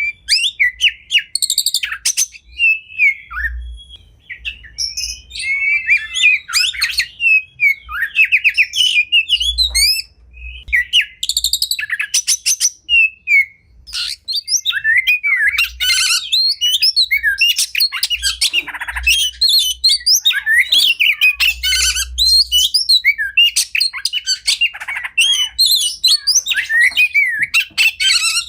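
Oriental magpie-robin (kacer) singing a rapid, varied song of whistles, chattering trills and harsh rasping notes, one phrase after another with only brief pauses.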